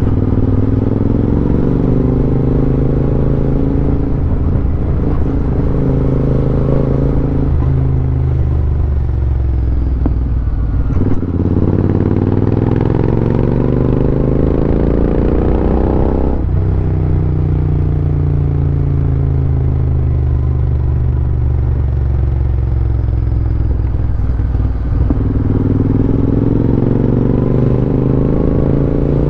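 Royal Enfield Interceptor 650's parallel-twin engine pulling along on the move, its note rising and falling with the throttle. There is a gear change about 16 seconds in where the pitch drops, with wind and road noise underneath.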